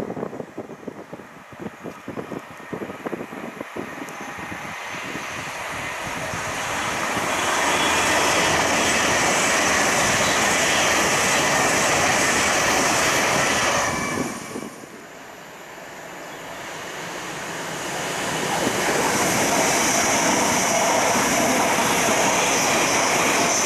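Passenger trains passing at speed on the East Coast Main Line. A rushing noise builds over several seconds and holds steady, then falls away suddenly about fourteen seconds in. It builds again as a second train comes through.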